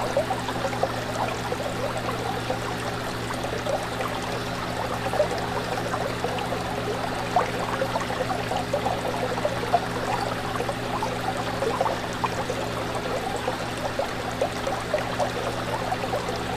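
Fish tank water bubbling and trickling steadily, dense with small bubble pops and splashes, over a steady low hum.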